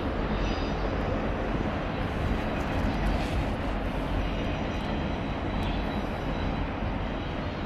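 Union Pacific freight train rolling past: a steady, even rumble of wheels on rail.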